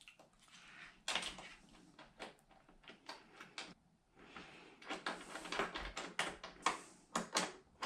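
Faint, irregular small clicks and scrapes of hands fastening a DC plug adaptor's cable terminals onto the posts of a 12 V lithium battery and tightening them, with a brief lull midway.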